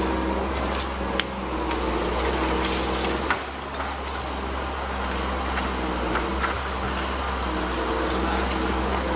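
A heavy machine's engine running steadily, with scattered sharp cracks and snaps over it.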